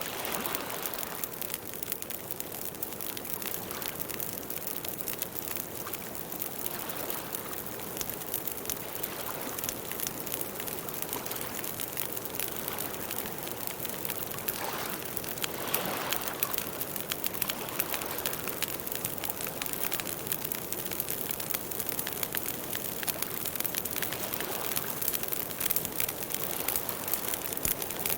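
Wood campfire crackling: a dense run of small sharp snaps and pops over a steady hiss of burning.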